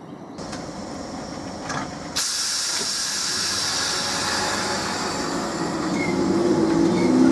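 Great Northern Class 313 electric multiple unit passing along the platform: a loud rush of wheel and rail noise that comes in suddenly about two seconds in and grows louder toward the end.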